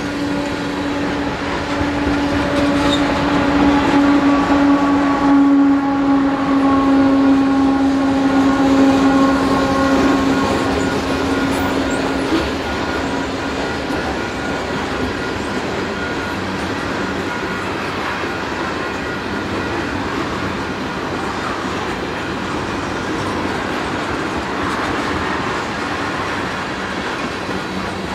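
Freight train rolling past at trackside. A mid-train diesel locomotive goes by with a steady humming tone, loudest in the first ten seconds and gone by about thirteen seconds in. After it, tank cars and boxcars roll past with steady wheel-on-rail noise.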